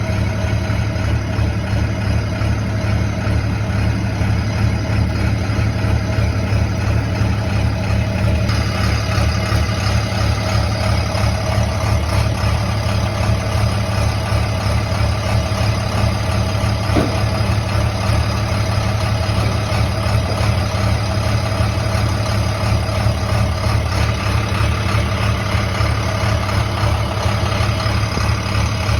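A motor vehicle's engine running steadily, a low even hum that does not change.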